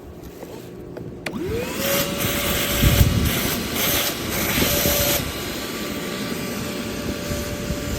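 Cordless shop vacuum switched on with a click about a second in. Its motor whine rises quickly and then holds steady. Rushing air comes and goes for a few seconds, then settles to an even run.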